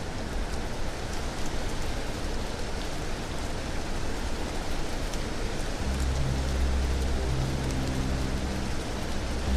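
Steady rain falling, an even hiss with a few faint ticks. A low, sustained musical drone comes in about six seconds in.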